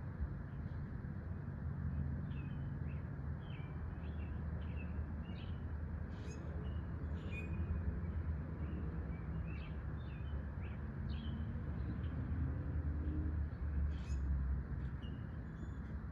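Small songbirds chirping and calling, many short notes in quick succession, over a steady low rumble.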